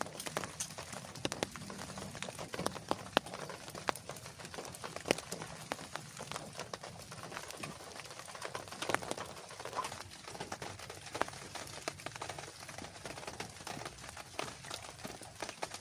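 Rain falling, with many large drops striking a surface close to the microphone in an irregular patter over a steady hiss.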